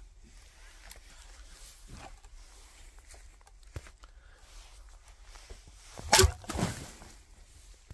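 An axe striking a log once about six seconds in, followed half a second later by a second burst as the wood splits apart. A few faint knocks and shuffling steps come before it.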